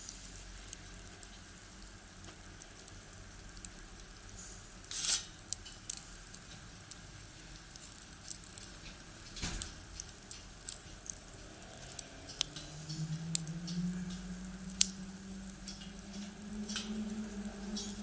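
Firewood crackling and popping in a small box stove, with irregular sharp snaps, the loudest about five seconds in. A low hum comes in about two-thirds of the way through and holds to the end.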